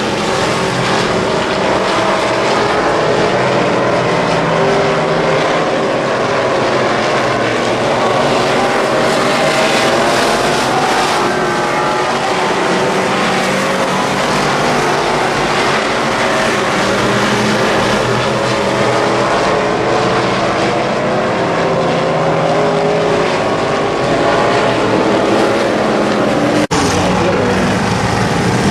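Several Midwest Modified race cars' V8 engines running hard together, their pitch rising and falling as they lap the track. There is a brief dropout near the end.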